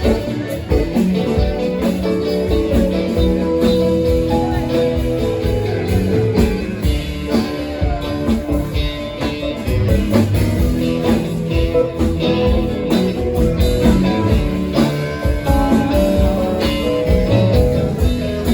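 A band playing an instrumental passage with a guitar lead and no singing, over a full rhythm section.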